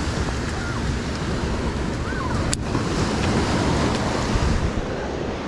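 Ocean surf washing onto the beach, with wind buffeting the microphone. A few faint short chirps can be heard, and there is one sharp click about two and a half seconds in.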